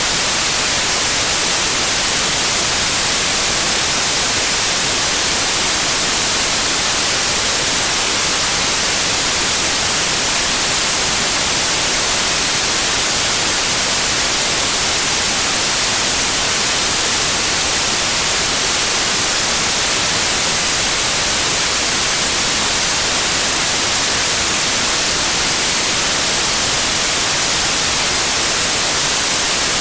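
Continuous electronically generated noise, presented as pink noise: an even, bright hiss that does not change at all.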